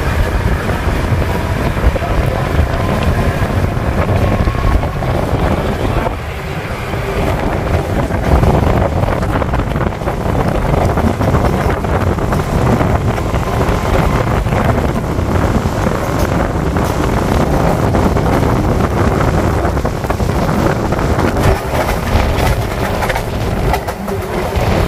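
Electric local train (EMU) picking up speed after leaving a station, heard from its open doorway: a steady rumble of the coach with the clatter of wheels over the track. Wind buffets the microphone.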